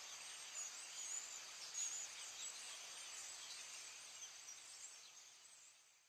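Faint, high chirps of small birds over a steady outdoor hiss, fading out near the end.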